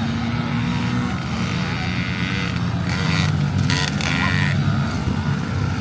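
Motorcycle engines running, their pitch shifting up and down.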